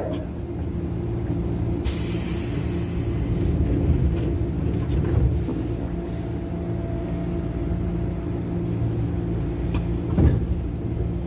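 Electric commuter train (KRL) humming steadily, with a sudden burst of compressed-air hiss about two seconds in that lasts a second and a half, typical of the pneumatic doors or brakes working as the doors close. A short thump near the end.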